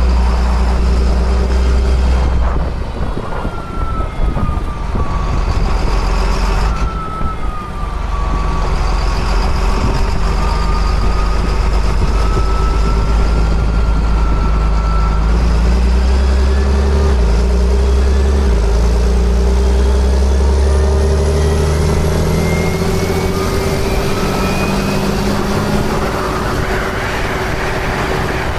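Engine of a 2005 John Deere sprayer running steadily under load in the field, a deep hum with a whine that slowly wavers in pitch.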